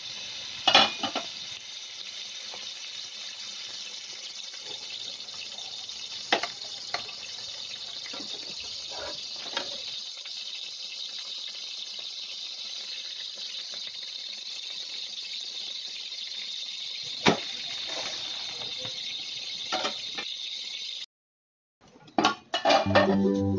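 Omelette frying in oil in a pan, a steady sizzle with a few sharp clicks. It cuts off suddenly a few seconds before the end, and plucked-string music begins near the end.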